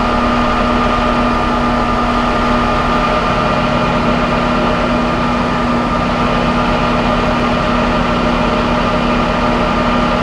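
A vehicle engine running steadily at idle, a constant hum with a steady whine above it.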